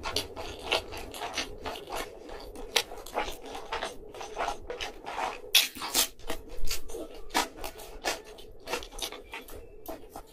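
Close-miked chewing and mouth sounds of a person eating pizza: irregular clicks and smacks, with a few louder ones around the middle.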